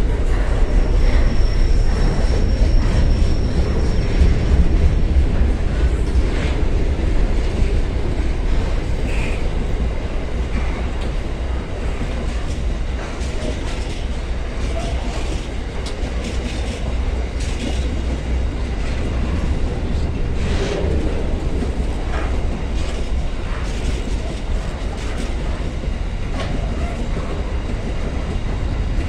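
Slow-moving container freight train passing close by, its flat wagons rumbling steadily on the rails with irregular wheel clicks over the rail joints.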